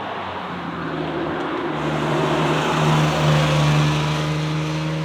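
A vehicle engine running at a steady pitch, growing louder about two seconds in and then holding steady.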